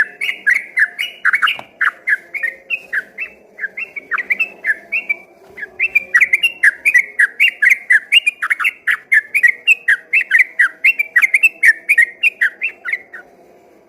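Yellow-vented bulbul (trucukan) singing a long, unbroken run of rapid chirping notes, about three to four a second, which stops shortly before the end.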